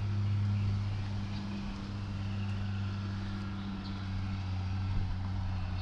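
Garbage truck engine running at a steady speed, a low even drone.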